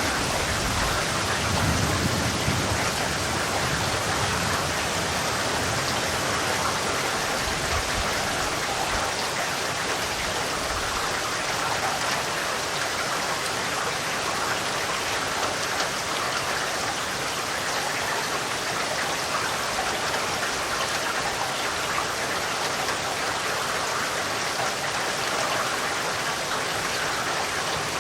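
Steady, heavy rain falling as a dense, even hiss, with a low rumble of distant thunder in the first few seconds.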